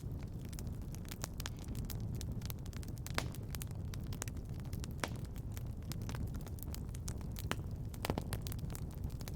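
Fireplace fire crackling: a steady low rumble of flames with sharp pops at irregular intervals, a few of them standing out louder.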